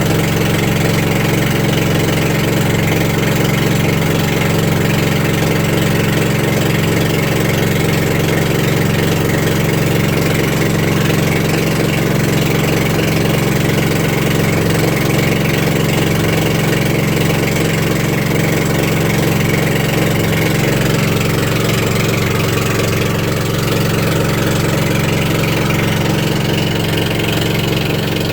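Boat engine running steadily, an even low drone that holds at a constant pitch.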